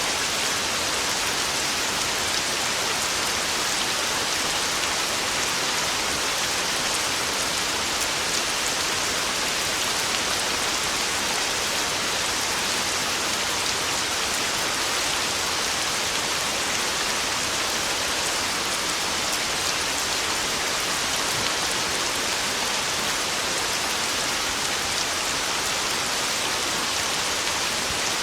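Heavy, driving rain falling, a steady dense hiss of drops with no thunder.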